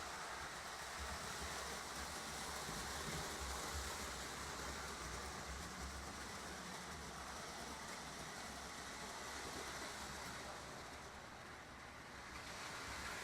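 Lionel O-gauge model trains running on the layout's track: a steady whir of motors and wheels with a low rumble, dipping a little near the end and then swelling again.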